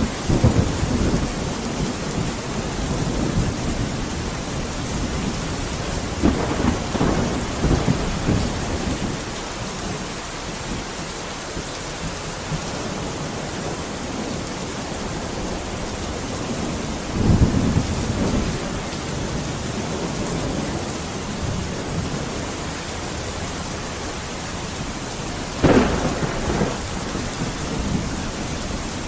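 Steady heavy rain with thunder rumbling several times: right at the start, about six seconds in, around the middle, and a sharper crack of thunder near the end.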